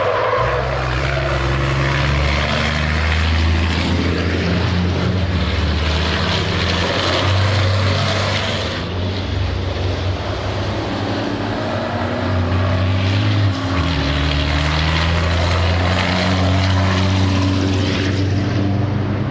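Racing trucks' big diesel engines running hard on track, a deep steady drone with the pitch slowly climbing as they accelerate. The sound dips and shifts about nine seconds in and again around thirteen seconds, as one run gives way to the next.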